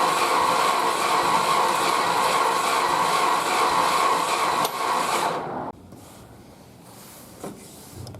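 The 1969 Chrysler Newport's V8 being cranked over by its starter motor for a compression test. It is a steady, even whirr that stops suddenly about five and a half seconds in. The cylinder under test reads under 30 psi, which points to very low compression.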